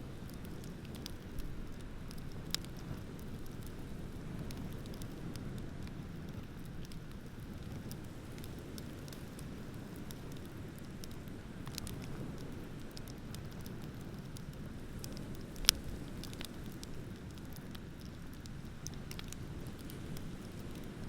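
Bonfire crackling with scattered sharp pops, one much louder pop about three-quarters of the way through, over a steady low rumble of ocean waves.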